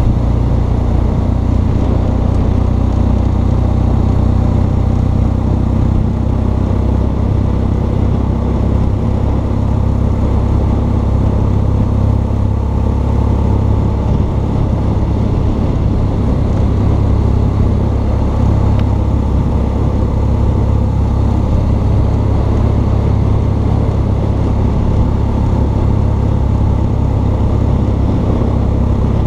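BMW R1200 GS Adventure's boxer-twin engine running at a steady cruise under riding wind noise, with no marked revving or gear changes.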